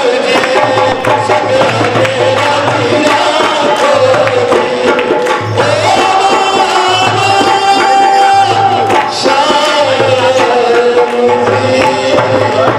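Devotional Shyam bhajan music: a held, sung or played melody over a steady, even hand-drum beat.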